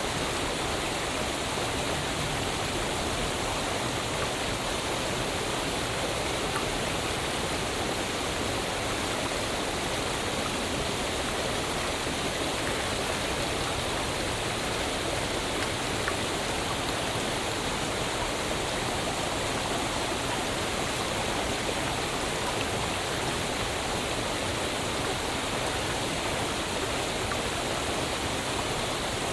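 Waterfall: falling water crashing steadily, an even rushing noise that does not change.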